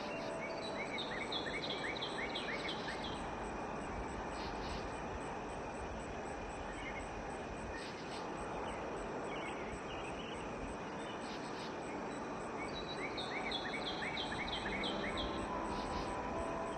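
Outdoor nature ambience: a steady hiss of open-air noise under a high, steady insect-like drone. Twice, a quick run of about seven short chirps breaks through, once about a second in and again near the end.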